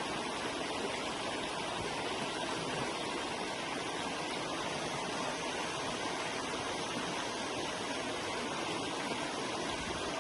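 A river flowing, its water rushing steadily and evenly.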